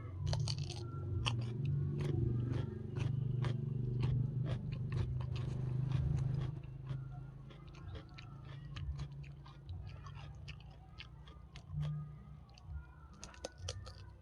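Close-up eating sounds: a person chewing and biting food, with many small crunchy, wet clicks, busier and louder in the first half.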